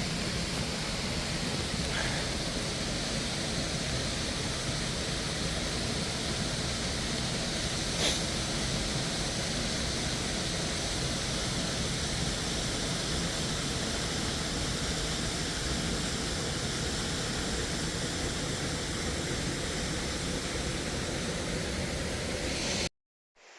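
Waterfall rushing steadily, a dense even roar of falling water with a single small click about eight seconds in; it cuts off abruptly near the end.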